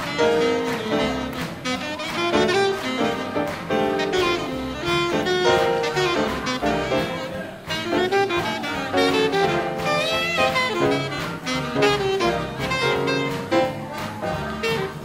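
Big band playing hot swing-era jazz, saxophones and brass over a walking double bass and a steady beat.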